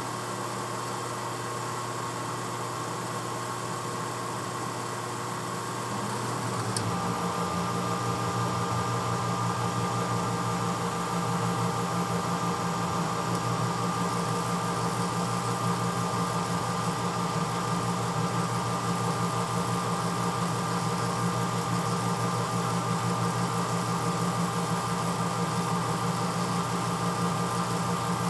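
1986 Hotpoint Potwasher dishwasher running near the end of its cycle with a steady hum. About seven seconds in there is a click, and a louder, lower motor hum takes over and runs steadily.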